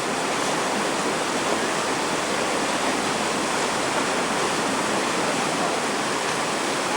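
Rushing river water, a steady even roar of flowing rapids.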